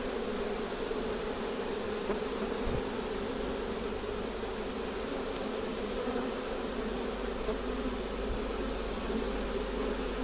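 Honey bee swarm buzzing: a steady, continuous hum of many bees.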